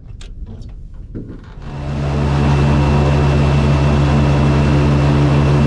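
An engine comes up loud about a second and a half in, then runs steadily at speed under a strong rush of wind.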